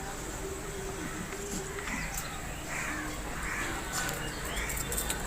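A bird calling about four times in quick succession over a steady low background hum, with a few sharp clicks near the end.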